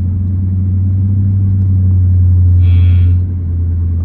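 Steady low rumble of a car at cruising pace, swelling slightly and easing off about three seconds in, with a brief high-pitched tone just before it eases.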